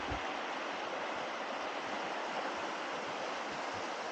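The River Dee rushing over rocks, a steady, even sound of flowing water.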